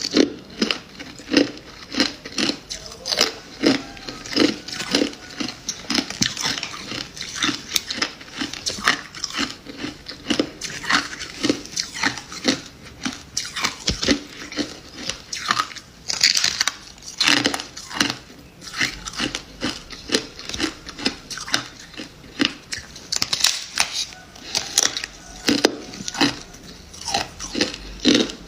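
Freezer frost being bitten and chewed: a long run of crisp crunches, about one or two a second.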